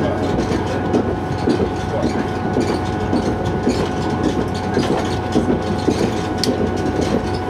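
Metre-gauge train running along the track, heard from on board: a steady rumble and rattle of the running gear with a constant whine over it.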